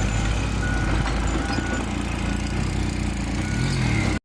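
Truck engine running steadily with its reversing beeper sounding in short beeps at intervals; the sound cuts off suddenly near the end.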